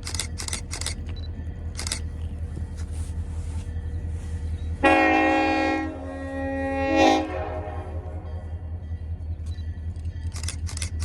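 Diesel locomotive's Nathan K5LLA five-chime air horn sounding one long blast about five seconds in. The blast starts loud, dips, swells again and cuts off after about two and a half seconds, over the steady low rumble of the passing train, with a few sharp clicks before and after.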